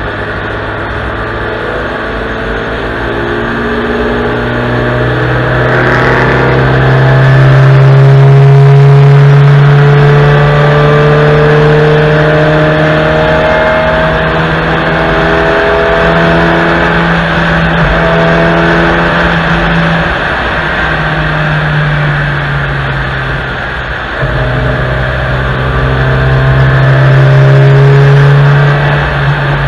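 Honda Civic IV hatchback's four-cylinder engine pulling hard under full throttle on track, revs climbing through the gears with drops at each gear change. About two-thirds through it briefly lifts off, then accelerates again. Road and wind noise run underneath.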